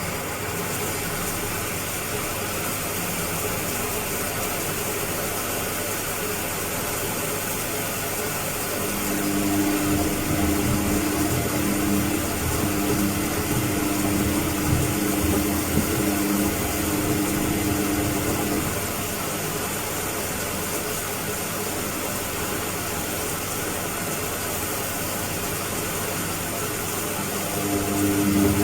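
Washing machine running with a steady, loud churning noise. A humming motor tone comes in about a third of the way through, stops about two-thirds in, and comes back near the end.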